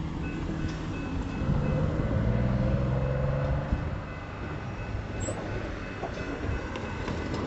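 Diesel locomotive engine throttling up: its low drone rises in pitch and grows louder from about a second and a half in, then eases back about four seconds in.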